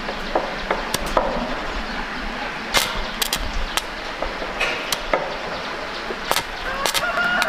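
Irregular sharp knocks and taps, about a dozen spread unevenly, over a steady background hiss.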